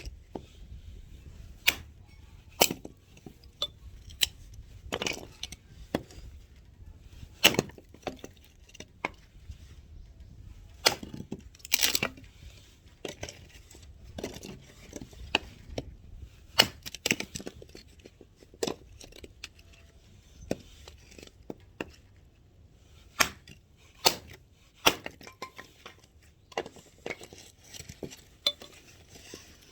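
Axe chopping firewood: a series of sharp, irregular knocks of the blade striking and splitting wood, roughly one every second or two.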